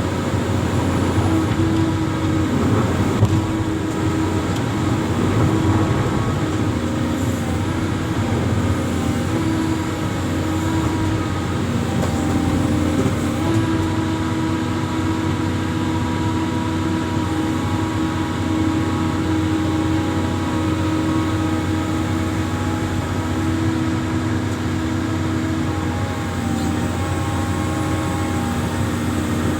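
Amphibious excavator's diesel engine running steadily under a continuous machine hum. Its pitch shifts a couple of times, about halfway through and again near the end.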